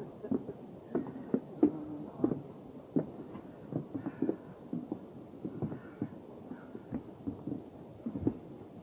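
Footsteps of hikers walking along a forest trail: irregular soft thuds, about one or two a second.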